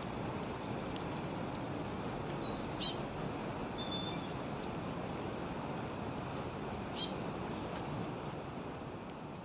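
Small birds chirping in four quick runs of short, high, falling notes, over a steady low rushing background.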